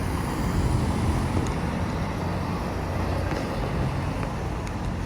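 Heavy road vehicle's engine running close by, a steady low rumble with traffic noise.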